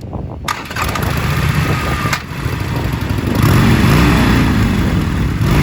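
Harley-Davidson Sportster 1200's air-cooled V-twin engine running, then revved up about three and a half seconds in.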